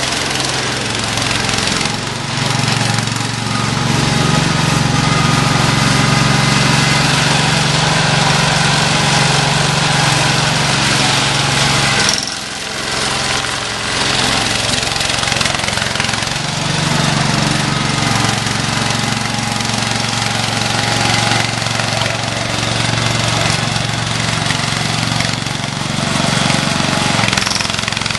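Cub Cadet 147 garden tractor's 14 hp single-cylinder Kohler K321 engine running steadily, with a short dip in sound about twelve seconds in before it picks back up.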